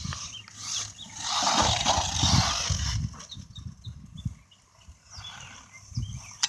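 Redcat MT10e electric RC monster truck driving over rough ground, with a loud rush of motor and tyre noise and bumps, starting about a second in and lasting about two seconds before falling away. Birds chirp throughout.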